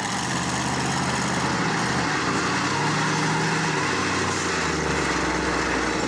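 Monster truck engine running loud and rough, its revs climbing briefly about halfway through and then settling back.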